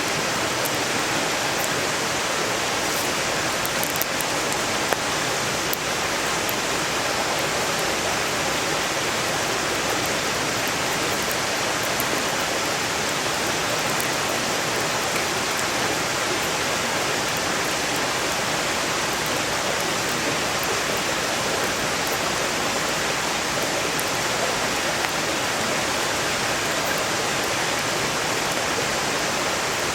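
Valley stream rushing steadily, with a few faint crackles from a burning wood campfire and one sharper pop about five seconds in.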